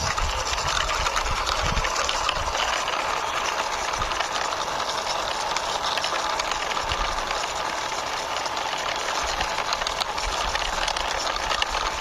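Plastic toy metro train pushed along by hand, its wheels rolling and rattling with many small clicks and occasional low knocks, over a steady hiss.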